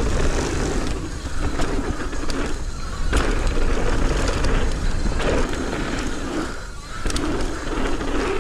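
Mountain bike riding down a dirt trail: wind rushing over the bike-mounted microphone and knobby tyres rolling, with sharp clicks and rattles from the bike over bumps.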